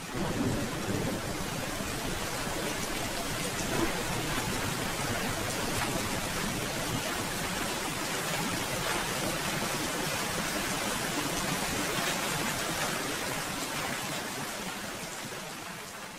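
Steady rain falling, an even hiss of drops, fading out near the end.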